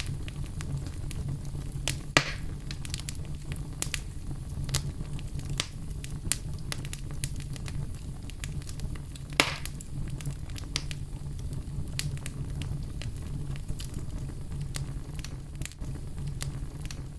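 Fire burning in a fireplace, crackling steadily with a low rumble and many small sharp pops; two louder pops come about two seconds in and about nine seconds in.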